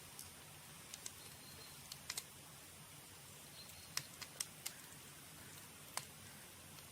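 Campfire crackling: sharp, irregular pops of burning wood, a dozen or so scattered through, over a soft steady hiss.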